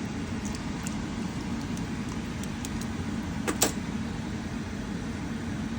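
Steady low rumble of a pot steaming on the stove, with a few light clinks of metal; the clearest comes about three and a half seconds in.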